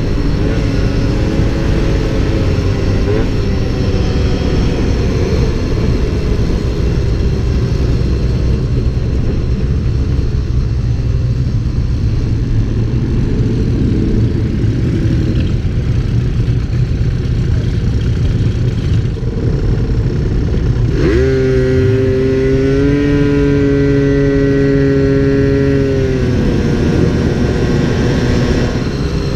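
Motor vehicle engines running over a steady low rumble. About two-thirds of the way in, one engine revs up in two steps, holds a high pitch for a few seconds, then drops back.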